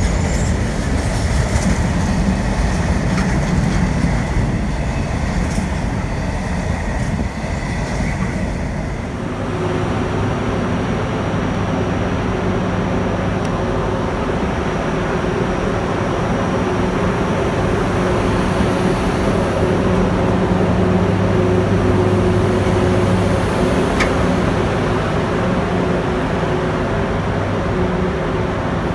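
Intermodal container wagons rolling past on the rails. About nine seconds in this gives way to a Class 90 electric locomotive standing at a platform, its equipment humming steadily with a few held low tones.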